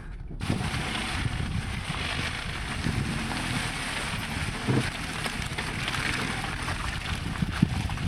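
A Jeep driving along a dirt trail: a steady rushing of tyre, drivetrain and wind noise with a low rumble, plus a few brief knocks. It starts abruptly about half a second in.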